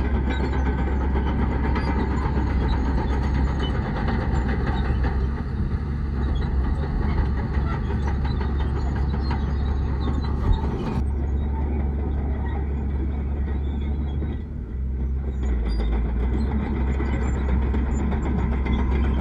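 Heavy diesel earthmoving machinery, bulldozer and dump truck, running steadily with a deep continuous rumble, with a single sharp knock about ten seconds in.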